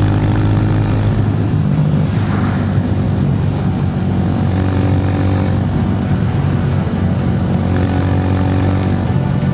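Roadmaster Rapido 150 motorcycle's engine and exhaust running steadily under way, a continuous low drone.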